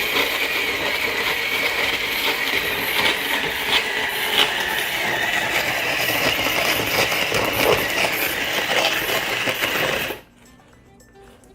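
Nostalgia snow cone maker shaving ice: a steady grinding, rattling clatter of ice cubes being crushed. It stops about ten seconds in.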